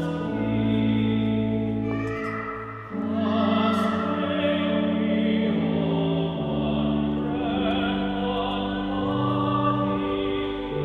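Sacred music: singing with vibrato over steady, held chords that change every second or two.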